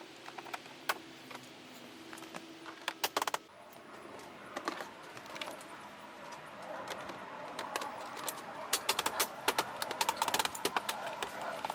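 Plastic rear trim panel of a Toyota RAV4 being handled and pressed into place: repeated sharp clicks and rattles of its plastic clips and pins, with rustling and scraping of plastic growing louder in the second half.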